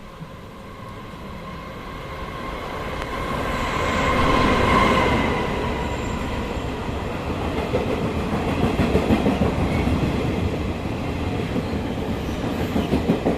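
Train running past on the rails. Its noise builds over the first few seconds to a peak, then settles into a steady rumble with bursts of rhythmic wheel clatter over rail joints.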